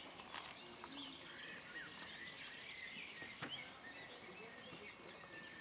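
Small birds chirping and singing, many short high calls overlapping, over a faint steady outdoor hiss. One short knock about three and a half seconds in.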